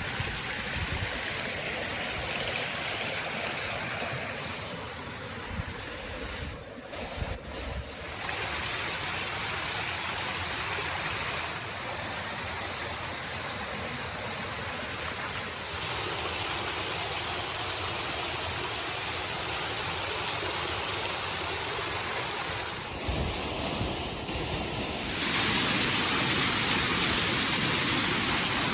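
Rushing water of a canyon stream and its waterfalls, a steady hiss that shifts in loudness several times and is loudest and brightest from about 25 seconds in. Wind buffets the microphone in the first several seconds.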